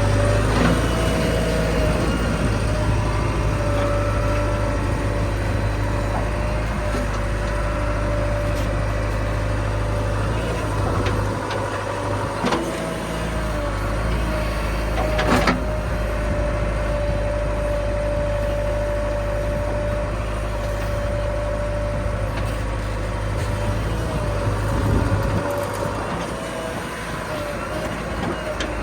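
Diesel engine of a backhoe loader working under steady load, with a held whine over the rumble and two sharp knocks a few seconds apart near the middle.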